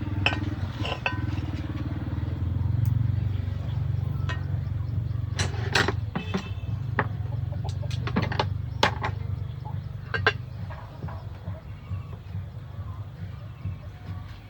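A vehicle engine running steadily, with scattered clicks and knocks.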